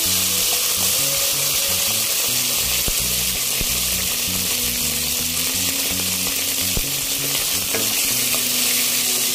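Potato wedges sizzling steadily in hot oil in a pan, stirred with a wooden spatula, with a few light knocks of the spatula against the pan.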